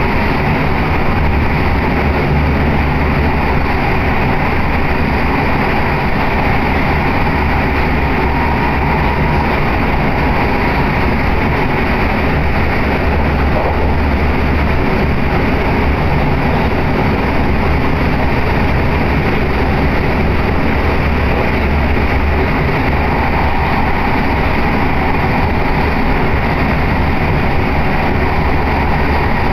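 Running noise inside an electric commuter train car under way: a loud, steady low rumble with wheel-and-rail noise, unchanging throughout.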